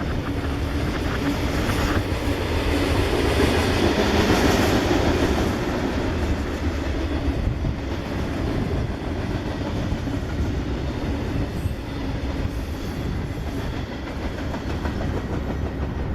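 Freight train rolling past on the tracks, a steady rumble of the cars on the rails, loudest a few seconds in and easing a little after.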